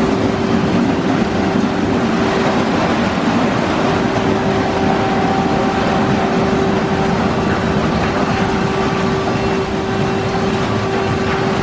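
Broadway all-cloth automatic car wash running: a steady mechanical hum with a constant motor tone over a continuous rush of noise.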